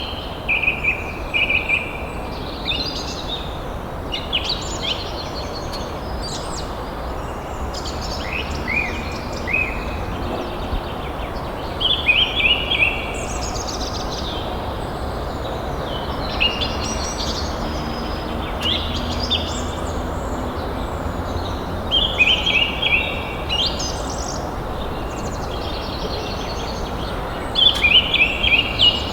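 Songbirds chirping in short repeated phrases every few seconds, over a steady background rumble.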